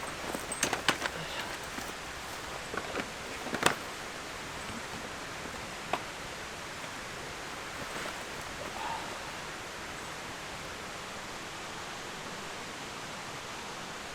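Steady outdoor hiss with a few rustles and sharp clicks in the first few seconds. The loudest click comes about three and a half seconds in, and a single click about six seconds in.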